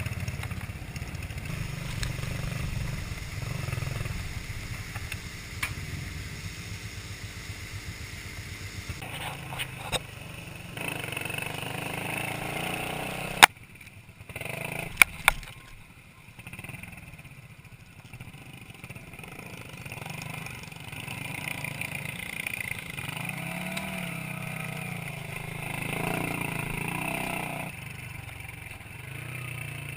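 Minsk 125cc two-stroke motorcycle engines running on the move, heard across a string of short clips that change abruptly several times. A few sharp knocks come about halfway through.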